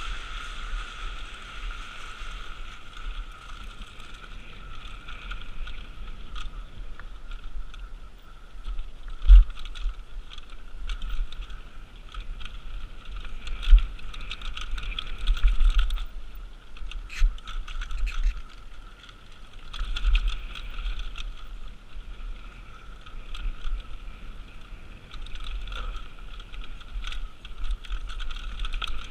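Mountain bike descending a rough trail at speed: the rear hub buzzes steadily while coasting over a constant rattle and rumble of the bike and wind. Two sharp heavy thumps about nine and fourteen seconds in.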